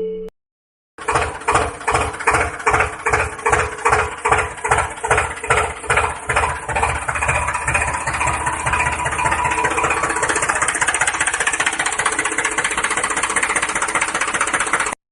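Tractor engine starting: it chugs slowly, about three beats a second, then settles into a fast, steady running note, and cuts off suddenly near the end.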